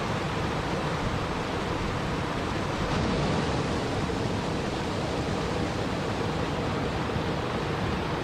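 Steady rushing water, an even noise with no distinct splashes or other events.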